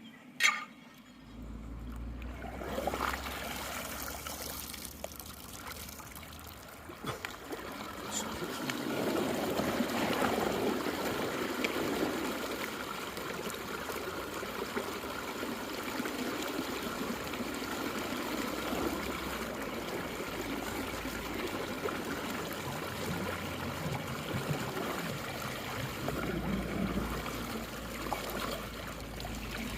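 Standing rainwater draining through a storm drain as it is unclogged: a steady trickling, running flow that grows louder a few seconds in. A single sharp click about half a second in.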